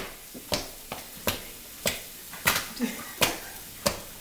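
Sneakered feet stomping on potatoes on a tile floor, mashing them: a steady run of about seven sharp slapping stomps, roughly one every two-thirds of a second.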